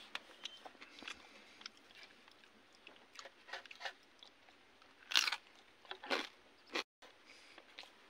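Close-miked chewing and crunching of a mouthful of rice and fried food, with wet mouth clicks and smacks; a few louder crunches come about five to seven seconds in, and the sound cuts out for a moment just before seven seconds.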